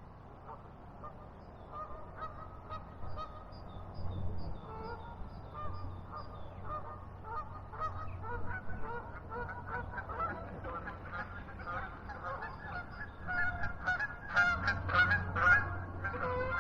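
A flock of birds calling: many short, repeated calls that grow busier and louder in the last few seconds.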